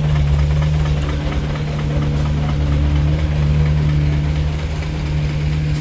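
A heavy engine running steadily with a deep, even hum.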